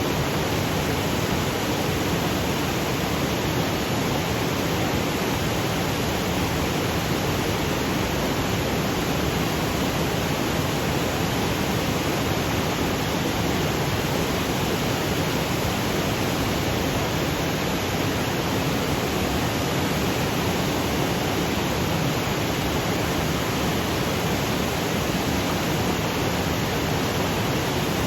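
Waterfall cascading over granite boulders: a steady, even rush of falling water with no breaks.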